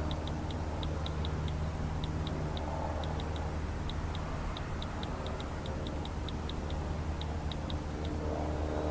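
A run of short, high ticks, irregular at about three or four a second, which stop shortly before the end, over a steady low hum.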